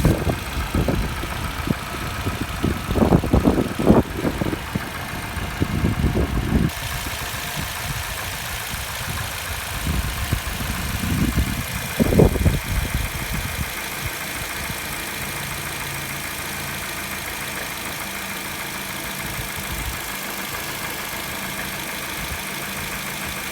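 Car engine running after a cold start: loud, uneven low rumbling surges through the first half, then a steady idle hum.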